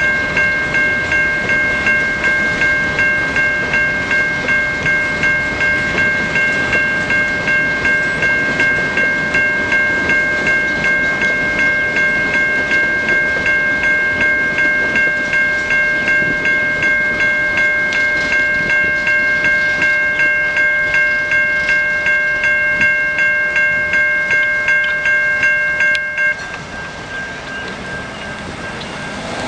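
Railroad crossing bell on the cantilever signal ringing in rapid, even strokes, about two a second, then cutting off suddenly about 26 seconds in as the crossing deactivates once the train clears the circuit.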